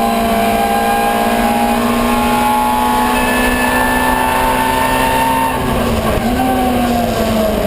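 Ford Escort 1300GT's 1.3-litre four-cylinder race engine running hard at steady high revs. About two-thirds of the way in the note breaks and drops, and the revs fall steadily near the end.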